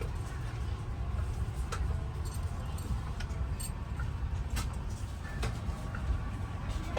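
Steady low rumble of an Airbus A350-1000 airliner cabin, with scattered light clicks and ticks.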